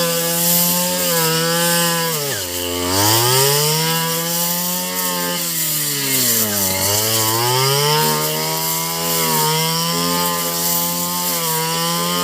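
Small engine running steadily at high speed; about two seconds in and again near seven seconds its pitch drops sharply, as it slows down hard, then climbs back to speed.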